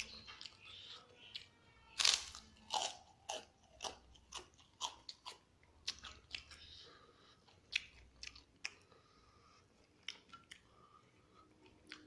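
A person biting and chewing crunchy food, a crispy fried egg (telur geprek) with rice, in irregular crunches, the loudest about two seconds in, growing sparser near the end.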